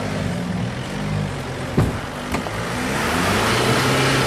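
Jeep JK Wrangler engine running under load as it crawls up rocks, with a sharp knock just under two seconds in and a lighter one shortly after. The engine gets louder over the last second or so.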